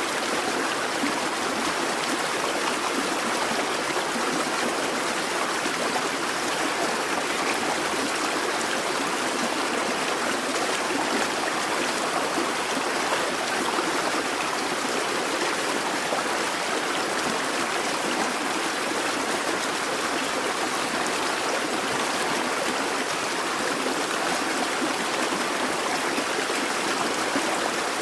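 Busy babbling brook: water running and splashing over stones in a steady, unbroken rush.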